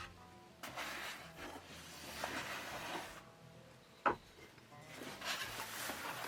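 Wood scraping and rubbing in several short bursts, with one sharp wooden knock about four seconds in.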